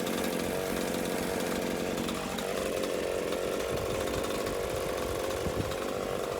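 Gas chainsaw engine running steadily, a constant low-pitched drone. It has been cutting out, and its user suspects it is running out of fuel.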